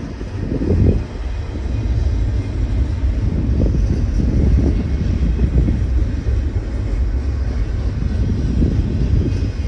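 Intermodal freight train rolling past with a loud, steady low rumble that swells and dips unevenly.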